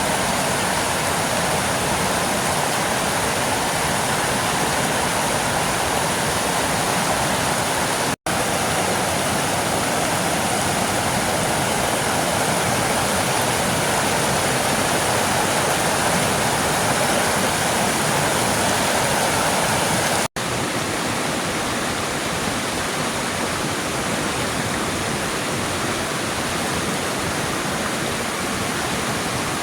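Waterfall running: a loud, steady, even noise of falling water, cut off for an instant twice, about 8 and 20 seconds in.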